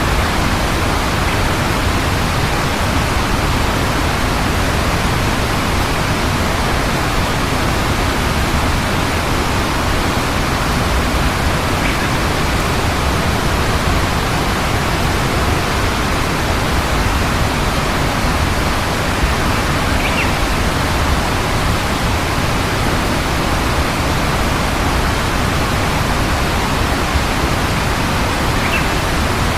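Steady, loud, even rushing noise that does not change, with a few faint short high notes over it.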